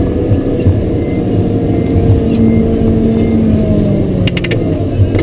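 Caterpillar 140K motor grader's diesel engine running steadily under working load, heard from the cab, with a brief quick rattle of clicks about four seconds in.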